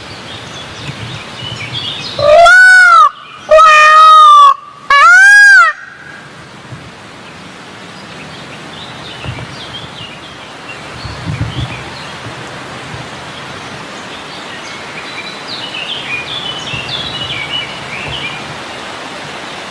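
Peacock calling: three loud calls in quick succession starting about two seconds in, each rising and then falling in pitch. Later, faint chirping of small birds.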